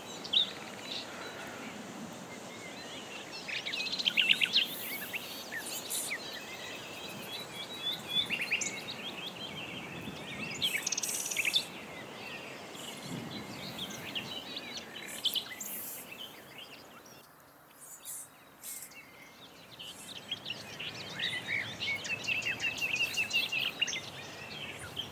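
Several wild birds singing and calling in a chorus of quick chirps and trills over a steady outdoor background hiss; the birdsong drops away briefly about two-thirds of the way through.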